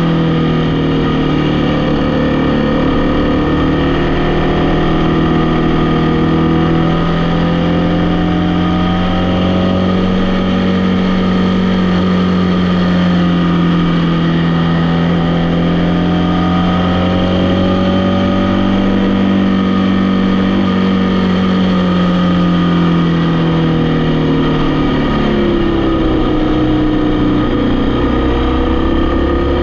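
A vehicle engine running steadily while driving along, its note rising slowly, dropping after about twenty-three seconds, then climbing again near the end.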